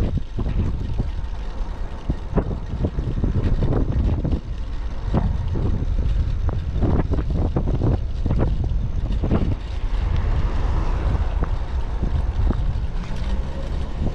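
Heavy typhoon wind buffeting the microphone: a loud, continuous low rumble broken by repeated sharp gusts.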